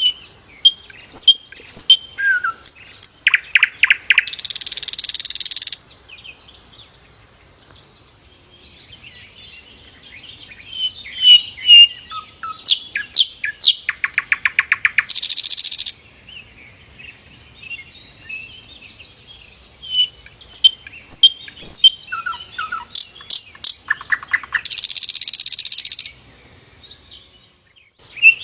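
Sikatan londo flycatcher singing: three similar song bouts about ten seconds apart. Each bout is a few high, clear whistled notes, then a quick series of sharp ticks, ending in a dry buzzing trill of about a second and a half.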